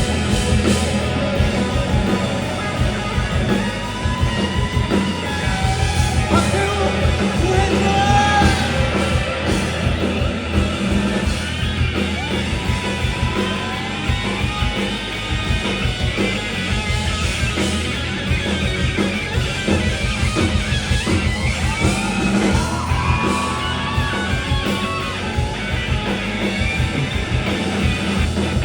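A rock band playing live, with a vocalist singing and shouting over electric guitars and drums.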